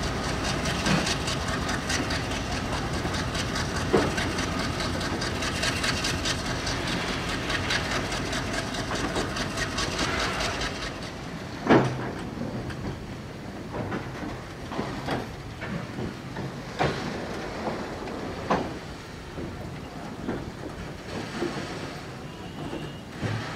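Broad-gauge container freight train's wagons rolling past, a steady rumble and clatter of steel wheels on the rails. About eleven seconds in the sound drops to a quieter rolling with scattered knocks and clanks, the loudest one just after the drop.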